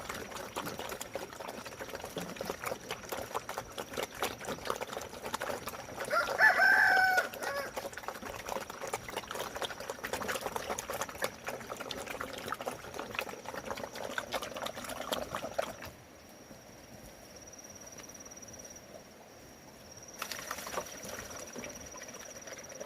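A rooster crows once, loud and pitched, about six seconds in, over a background of close rustling and small clicks that quiets down near the end.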